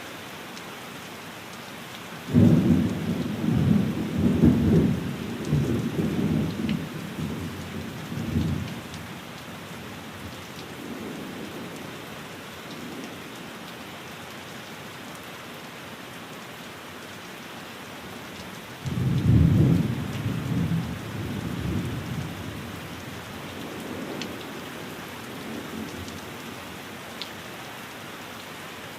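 Steady rain falling on a window, with two rolls of thunder. The first breaks suddenly about two seconds in and rumbles for several seconds before fading; the second comes about two-thirds of the way through and dies away more quickly.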